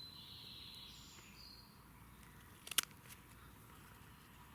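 Faint high bird chirping in the forest during the first second and a half, then a single sharp click nearly three seconds in.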